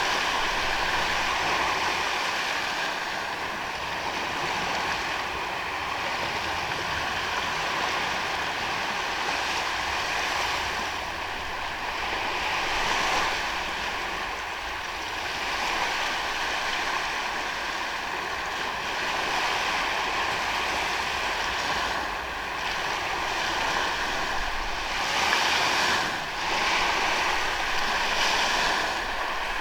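Ocean waves breaking and washing onto a sandy beach, a continuous surf that swells and eases, with stronger surges about 13, 25 and 28 seconds in.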